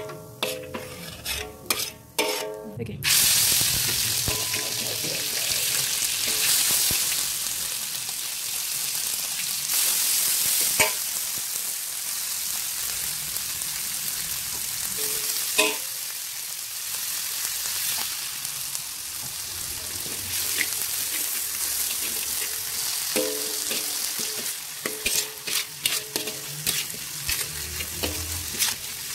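Chopped red chilies frying in oil in a wok with a steady sizzle that comes up about three seconds in, while a metal spatula stirs and scrapes them, knocking sharply against the pan a couple of times. More clinking and scraping near the end as beef is stirred into the chilies.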